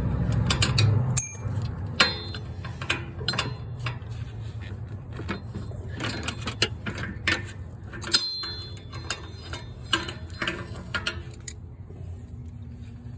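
Irregular metallic clicks and clinks of hand tools and metal parts being handled, a few of them ringing briefly, over a steady low hum.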